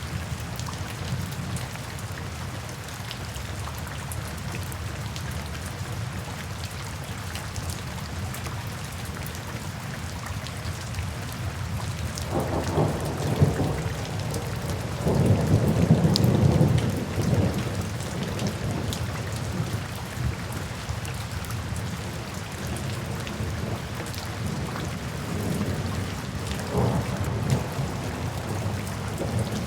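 Steady rain falling, with a long rumble of thunder rolling through about halfway in, then fading.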